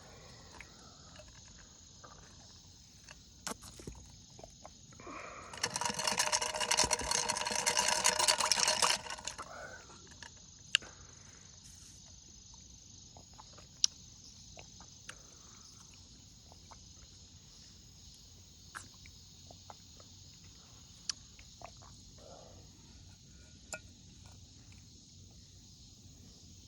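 Insects chirring steadily in high-pitched tones. About five seconds in, a much louder buzzing call rises and runs for about three and a half seconds, then fades. Scattered small clicks sound throughout.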